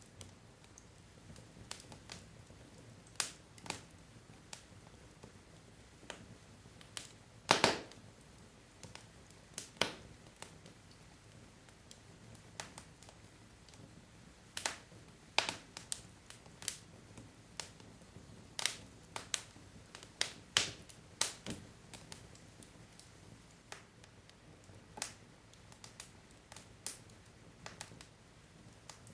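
Wood fire crackling: burning logs giving off irregular sharp pops and snaps over a faint steady hiss, with a louder cluster of pops about a third of the way in.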